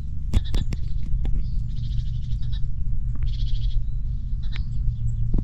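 Livestock bleating twice in quick succession: two high, wavering calls, each under a second long, over a steady low rumble, with scattered clicks.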